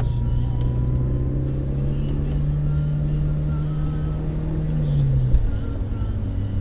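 Škoda 136 engine running under load inside the cabin while driving, its note climbing slowly as revs build, then dropping sharply about five seconds in as the driver lifts off or changes gear. A brief low thump follows the drop.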